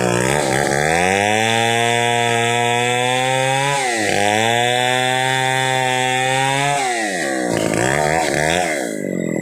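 Stihl 070 two-stroke chainsaw revving up to full throttle and held there while sawing pule wood into planks, dropping briefly about four seconds in and coming back down to a lower, uneven speed about seven seconds in.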